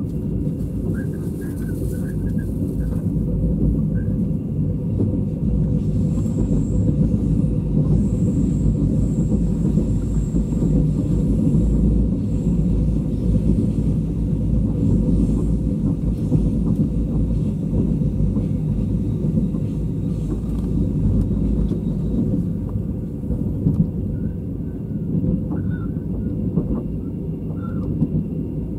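Interior running sound of a State Railway of Thailand sleeper express coach: a steady low rumble of the wheels and bogies on the track, with a few short high squeaks near the start and again near the end.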